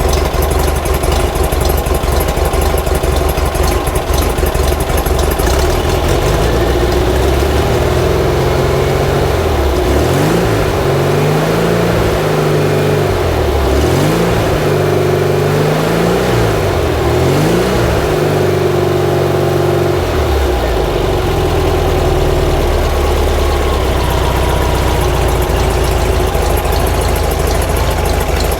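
A 1950s VW Bus's air-cooled flat-four engine running at idle, blipped up and down several times in the middle, then settling back to a steady idle.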